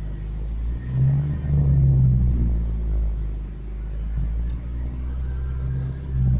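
Pickup truck engine running, its revs swelling twice about a second in, sagging in the middle, and rising again near the end. The truck keeps stalling, which the owner suspects is from being almost out of gas.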